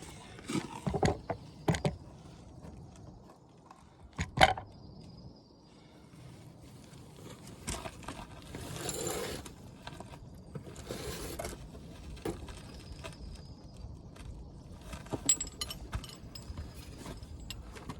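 Hand tools being handled: metal clinks and knocks with a ratchet and sockets, a sharp clack about four seconds in and longer rattling, rummaging stretches in the middle, as a socket is sought for the caliper bolts.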